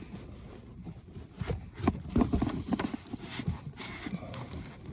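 Irregular plastic knocks, clicks and scrapes as a cabin air filter is pushed and worked into its housing.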